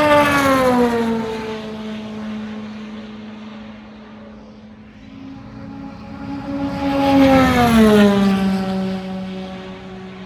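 Two race cars passing at high speed one after the other, each engine note growing loud and then dropping in pitch as it goes by: the first right at the start, the second about seven seconds in.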